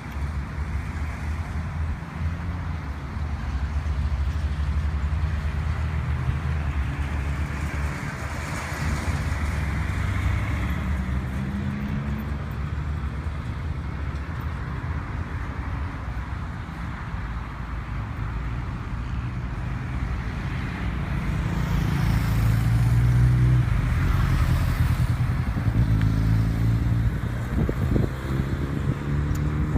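A 1000 cc motorcycle engine running through its exhaust, blipped up in revs a few times, with a louder stretch of revving in the last third.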